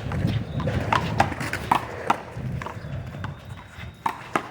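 Irregular sharp slaps and knocks of a one-wall handball rally: a small rubber ball struck by hand and bouncing off the wall and court, about seven or eight hits.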